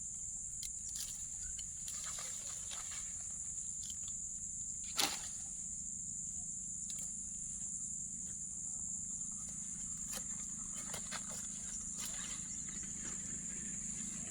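Insects chirring in a steady, continuous high-pitched drone, with scattered faint clicks and one sharp click about five seconds in.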